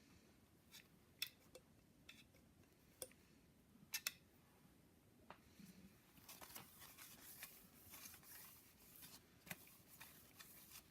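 Near silence with a few faint clicks and light handling noises from the piston ring compressor and piston being oiled and handled: small clicks about one, three and four seconds in, then soft rustling in the second half.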